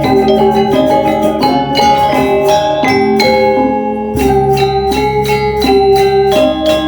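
Balinese gamelan playing: bronze metallophones struck in fast, even strokes over sustained low gong tones.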